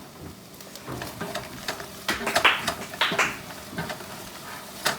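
Kitchen handling noises: a run of clicks, knocks and short scraping or rustling sounds, busiest about two to three seconds in, with a sharp knock near the end.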